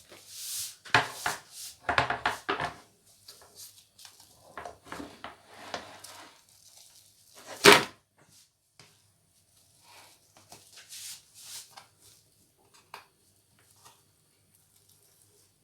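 Kitchen items being handled: scattered knocks, clicks and short clatters of dishes and utensils, with one sharp louder knock about eight seconds in and only small ticks towards the end.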